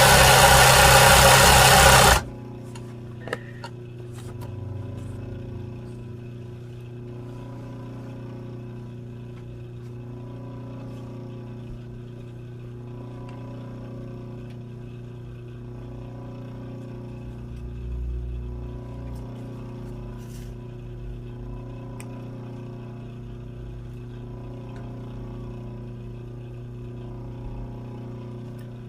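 Sewing machine stitching fast for about the first two seconds, then stopping, leaving a steady motor hum.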